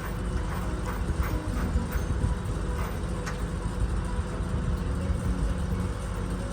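A heavy engine running steadily at a constant speed, with a few light knocks over it.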